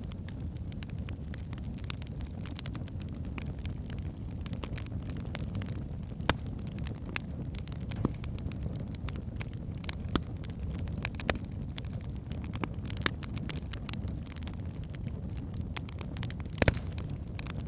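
Wood fire burning in a fireplace: a steady low rumble of flames with frequent sharp crackles and pops from the logs, a few of them louder, the loudest one near the end.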